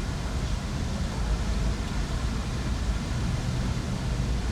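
Steady outdoor city ambience: an even low rumble with a hiss above it, without any single event standing out.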